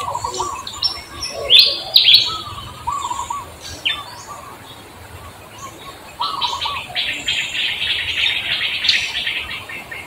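Birds chirping: a couple of loud high chirps about two seconds in, then a rapid run of quick chirps through the second half.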